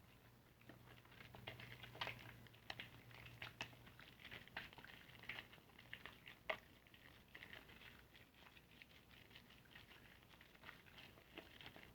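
Soapy car-wash sponge being squeezed and worked into a lather, giving faint, irregular wet crackles and squishes.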